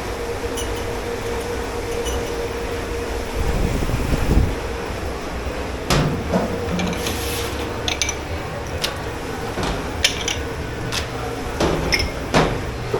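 Dishes and pots clattering and knocking at irregular intervals in a dish pit, over a steady machine hum with a faint steady tone.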